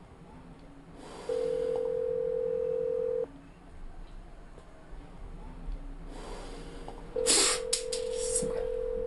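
Telephone ringback tone heard from a phone: two long beeps of about two seconds each, some four seconds apart, while the call goes unanswered. A few sharp clicks and a rustle come with the second beep.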